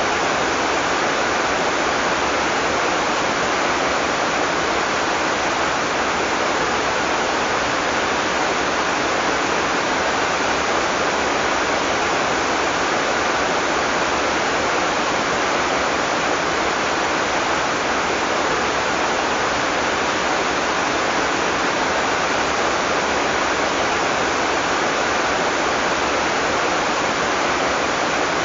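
Heavy tropical rain falling in a steady, even downpour with no thunder.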